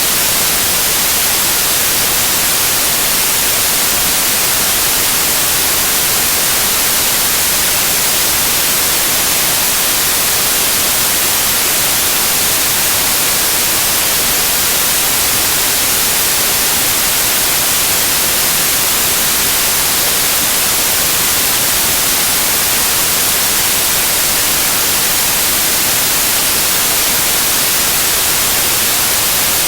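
Loud, steady white noise: an even hiss, strongest in the high treble, that does not change.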